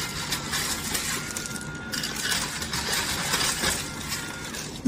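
A busy clatter of many small clinks and knocks of hard objects, close together.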